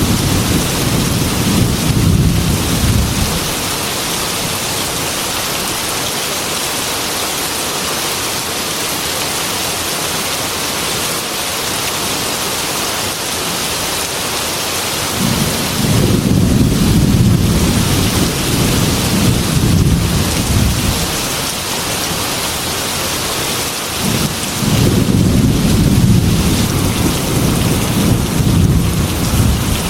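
Heavy rain falling steadily on a glass window, with rolling thunder rumbling three times: fading out in the first few seconds, again from about halfway for several seconds, and once more near the end.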